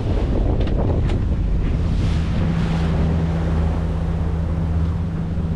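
Volvo Penta D3 five-cylinder diesel of a sailing yacht running steadily under way, a low even drone, under heavy wind buffeting on the microphone and the rush of sea water.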